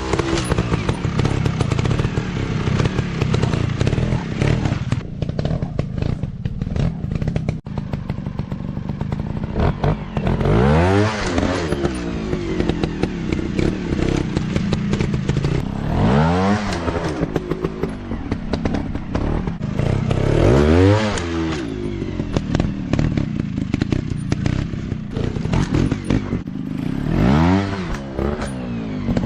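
Small 150 cc dirt bike engines running, with the engine pitch sweeping up and back down four times, along with scattered clattering and knocks.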